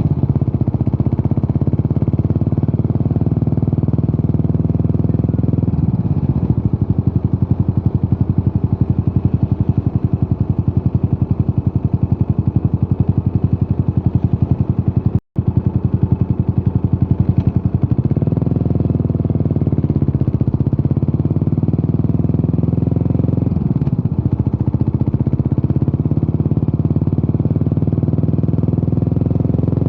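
Yamaha SR400's single-cylinder four-stroke engine running under way through a Peyton Place conti muffler, its exhaust pulsing steadily. The engine note changes several times as the bike speeds up and eases off, and the sound cuts out for an instant about halfway.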